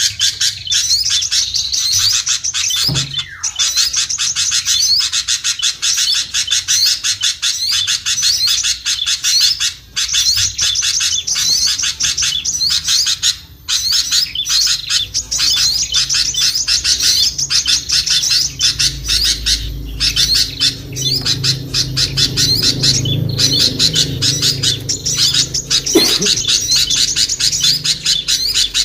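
Dense, unbroken chatter of small songbirds: rapid, high twittering chirps and trills overlapping without a pause. It is a bird-lure call used to draw small birds down. A faint low rumble sits underneath in the second half.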